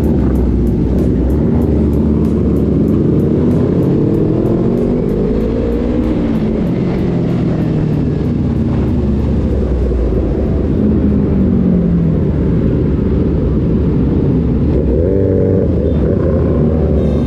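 Motorcycle engine riding along, its pitch rising and falling several times as it revs and shifts, over a dense low rumble.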